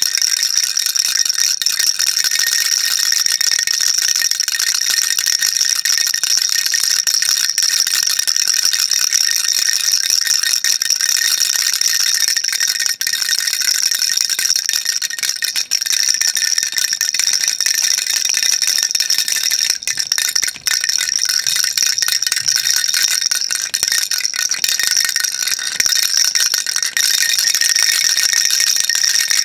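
Baby rattle shaken without pause: a steady, dense, high-pitched rattling that barely lets up, with only a momentary dip about twenty seconds in.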